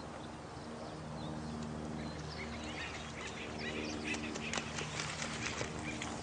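Nature ambience: a steady wash of running water under a low steady hum, with many short, high bird chirps and clicks that grow busier about two seconds in.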